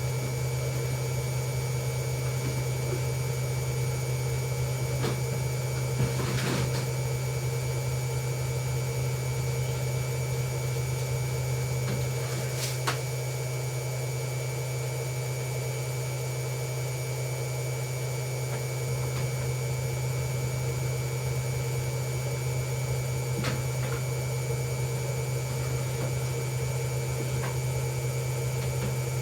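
Hoover Ecologic Computer Washer 1300 washing machine running with a steady low hum, with a few short knocks about 6, 13 and 23 seconds in.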